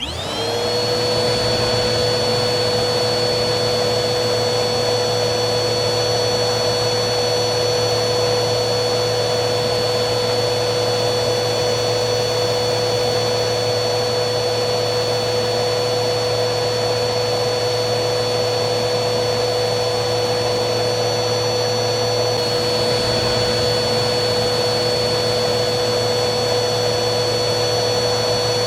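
Vacuum cleaner motor starting up from silence, its whine rising and settling within about a second, then running steadily with an even whine and rushing air.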